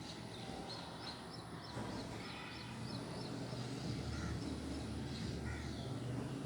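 Birds chirping, a run of short high chirps, over a steady low rumble that grows louder in the second half.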